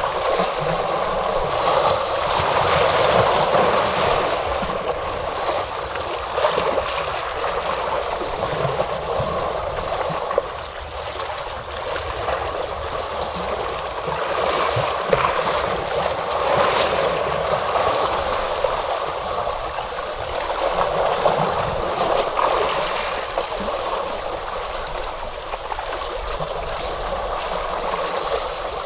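Ocean waves washing onto a shore: a continuous rush of surf that swells and eases every several seconds.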